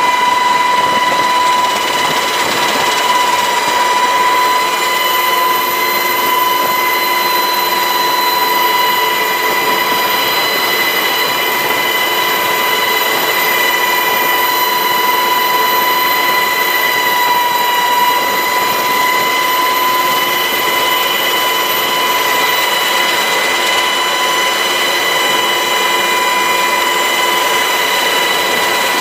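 Sikorsky HH-60 Pave Hawk helicopter running: a steady, loud high-pitched turbine and gearbox whine over a dense rush of rotor and engine noise, with no gunfire.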